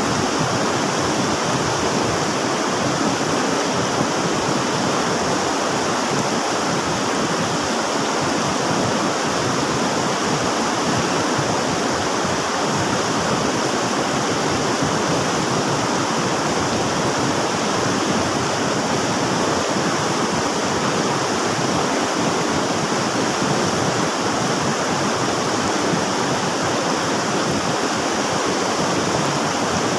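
River water rushing and splashing in a steady, even stream.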